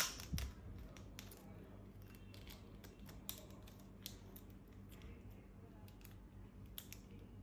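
Scattered faint clicks and taps of toy packaging being handled, with a louder pair of clicks at the start.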